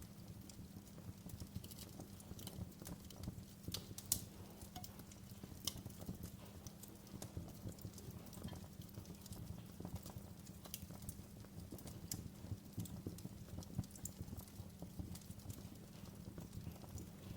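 Wood fire crackling in a fireplace: irregular sharp pops and snaps over a steady low rumble of burning, with the loudest pop about four seconds in.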